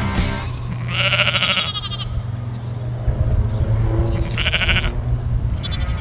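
Lamb bleating three times, a long call then two shorter ones: a lamb separated from its mother calling for her.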